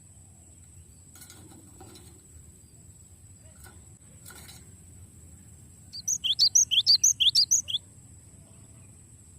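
Cinereous tit (gelatik batu) singing a fast rolling run of about a dozen short, sharp chirps, roughly seven a second, starting about six seconds in and lasting under two seconds. A few faint clicks come before it, and a thin steady high whine runs underneath.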